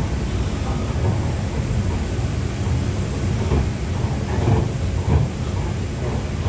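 MRT Pink Line monorail train running along its track, heard from inside the car as a steady low rumble.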